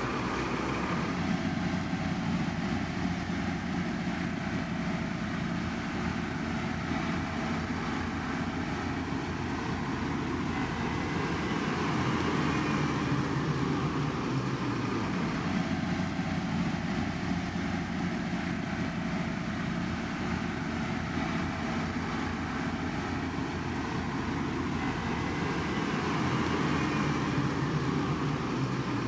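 Steady running noise of heavy road-construction machinery engines. A dense, even rumble and clatter that repeats about every fourteen seconds, with no changes in pace.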